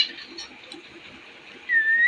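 A parrot gives one clear whistled note near the end, dipping slightly and then sweeping up sharply as it stops. Before that there is only a faint background hiss.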